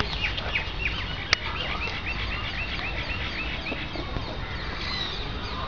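Birds calling and chirping, including a quick run of repeated short notes for about three seconds, over a steady low rumble. A single sharp click about a second in.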